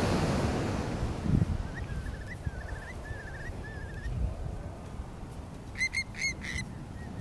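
Low, steady rumble of ocean surf and wind on the microphone, with birds calling over it: a run of wavering whistled notes about two seconds in, then four short sharp calls near the end.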